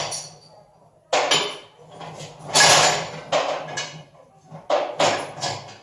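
Metal clanking: several separate sharp metal-on-metal knocks, some in quick pairs, each with a short ring, from tools and hardware being handled around a vehicle lift.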